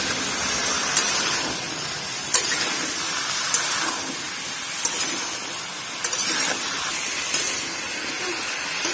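Jackfruit and potato pieces sizzling in hot mustard oil in a kadhai: a steady frying hiss, broken by sharp clicks every second or so.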